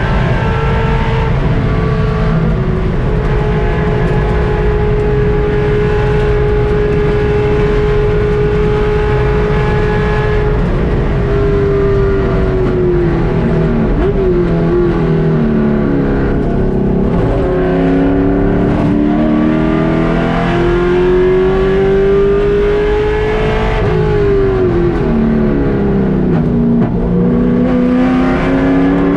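Race car engine heard from inside the cockpit. It is held at steady high revs for about ten seconds, then the revs fall. They climb again, drop once more about two-thirds of the way through, and rise again near the end.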